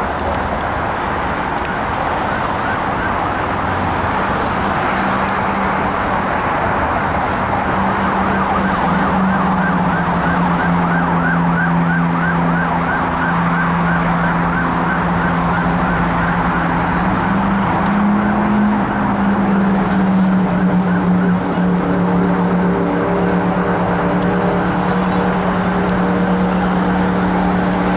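Steady rushing background noise with low humming tones that shift in pitch. In the last few seconds more hum tones build up as a Class 319 electric multiple-unit train approaches along the line.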